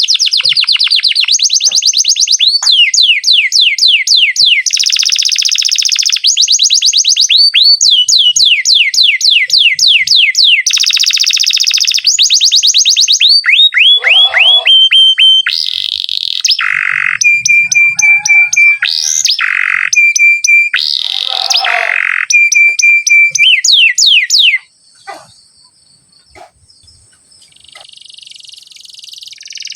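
Domestic canary singing a long song of rapid rolling trills: fast runs of repeated high notes, some sweeping up or down, mixed with held whistled notes. The song breaks off about 24 seconds in, leaving only faint sounds, then picks up again near the end.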